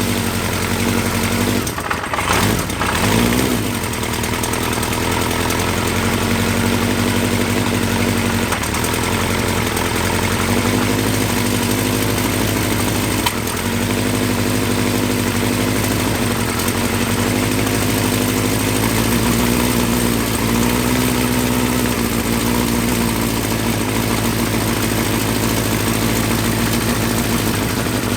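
1975 Honda CB550's air-cooled inline-four engine idling steadily just after starting, with a brief dip and wobble in the engine note about two seconds in.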